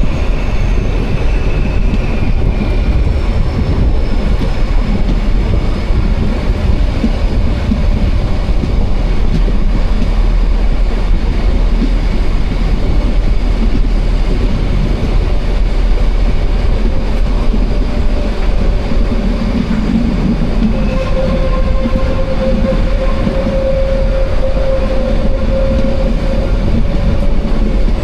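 Narrow-gauge train running steadily, a continuous low rumble with faint high-pitched wheel squeals that come and go.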